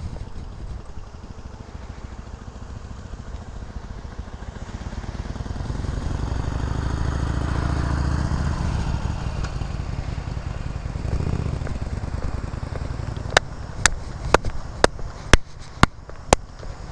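Harley-Davidson Sportster Iron 883's air-cooled V-twin engine running as the bike rides its practice loop, growing louder to a peak about halfway through, then easing, with a smaller swell a few seconds later. Near the end, seven sharp clicks about half a second apart.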